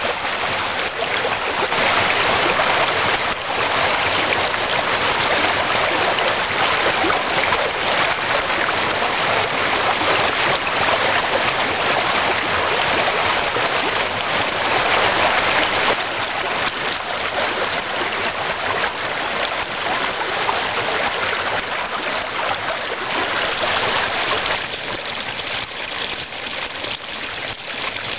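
Spring meltwater rushing steadily down a small waterfall and stream, as an even hiss of running water that eases slightly near the end.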